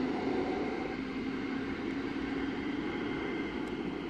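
Rumble of a train that has just passed, receding down the line and fading slowly, with a steady hum over the noise.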